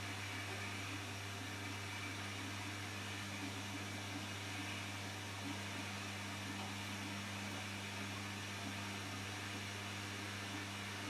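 Washing machine running with a steady low motor hum and an even hiss, no change in speed.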